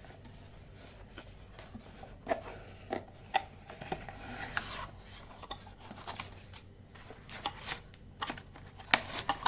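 Hands handling and opening a product box: scattered clicks and taps with scraping, rubbing packaging noise, a longer swish about four seconds in.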